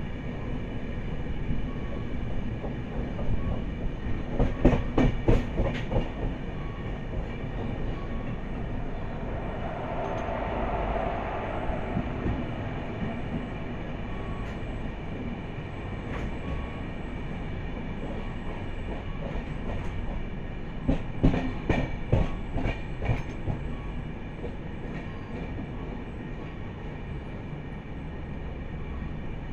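A train moving along the track with a steady rumble, its wheels clacking over rail joints in two quick runs, a few seconds in and again about two-thirds of the way through.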